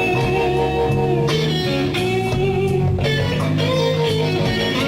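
Slow blues played on electric guitar over a band's accompaniment, the guitar filling the gap between sung lines with held and bent notes.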